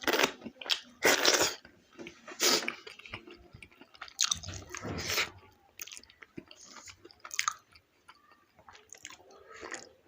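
A person eating close to the microphone, chewing mouthfuls of maize dhido and greens with wet mouth noises and a few louder crunchy bites at uneven intervals.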